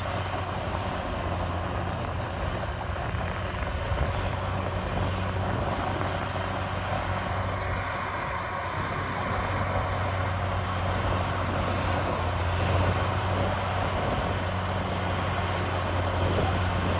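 CAT D6R crawler bulldozer working, its diesel engine running steadily with a low hum, its steel tracks clattering, and a thin high squeal coming and going throughout.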